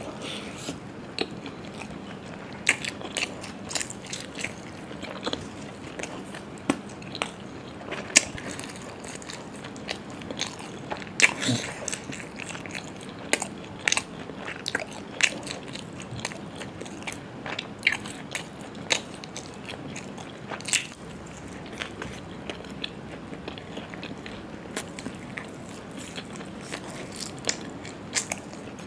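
A person chewing and biting food close to the microphone: irregular wet smacks and clicks of mouth sounds while eating curry with chicken and puri.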